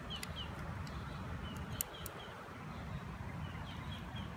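A small bird chirping: runs of short, high, falling chirps, three or four at a time, over a low steady background rumble, with a light click about two seconds in.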